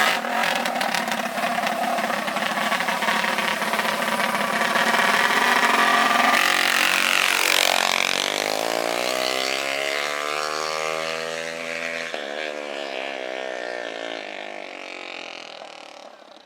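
Small racing engines running steadily, then accelerating hard with a rising pitch about eight seconds in, and fading away over the last few seconds.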